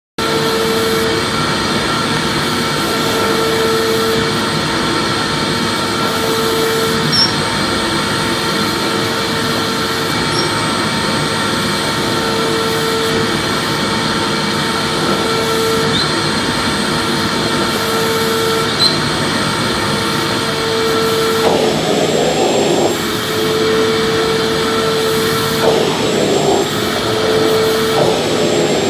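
Vacuum cleaner running steadily, starting abruptly out of silence, with a constant whine and a hum that swells and fades about every two and a half seconds.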